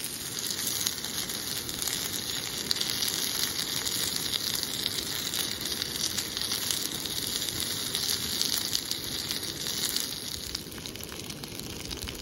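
Food sizzling and crackling in a hot pan, a steady hiss that drops away about ten seconds in.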